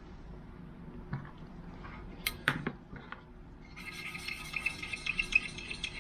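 A few light knocks of the brass fire extinguisher body being handled, then, about two thirds of the way in, a scratchy rubbing begins on its heavily tarnished brass surface and keeps going.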